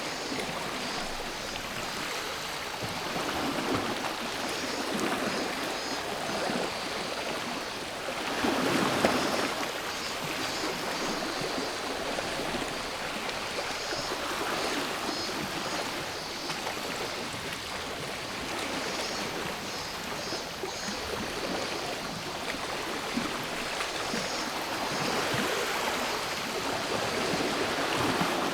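Gentle sea waves washing onto the shore, swelling and falling away several times, the biggest wash about nine seconds in. Cicadas buzz in the background throughout.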